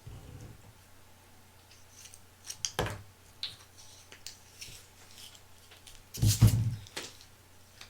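Close-up handling noises: scattered light clicks and scrapes, a cluster of them about three seconds in, and a heavier knock about six seconds in.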